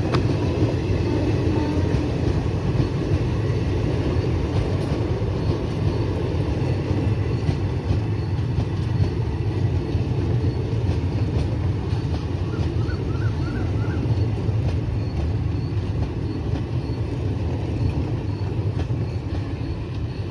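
Train running on the rails with a steady, continuous rumble of wheels and coaches.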